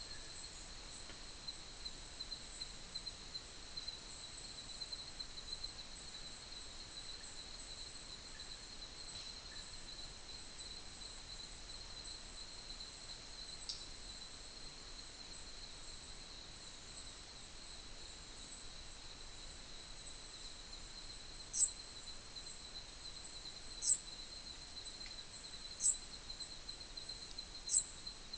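Steady high chirring of night insects such as crickets. Near the end a short, high, downward-sliding call repeats four times, about two seconds apart.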